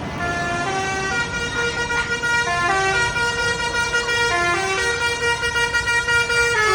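A tune played as a single line of held notes in a reedy, horn-like tone, stepping up and down in pitch every quarter to half second, over a low rumble of engines.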